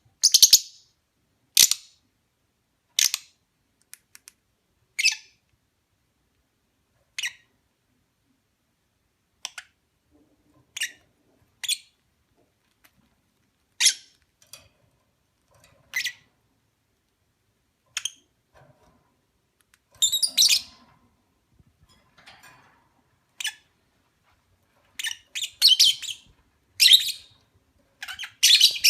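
Caged Fischer's lovebirds calling: short, shrill chirps spaced a second or two apart, coming thicker and overlapping near the end.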